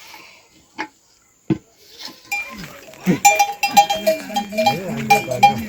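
Goats bleating and their bells clanking rapidly, starting about three seconds in after a couple of faint knocks.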